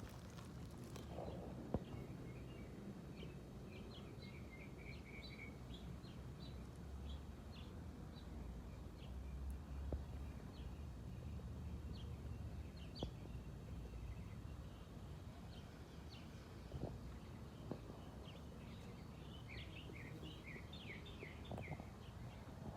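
Small birds chirping and twittering in short high notes, with a quick trill about five seconds in and a denser flurry of chirps near the end, over a steady low background rumble.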